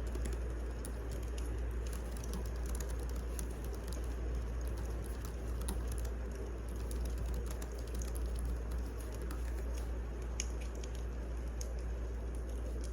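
Wood fire crackling in a fireplace: irregular small snaps and pops over a steady low rumble.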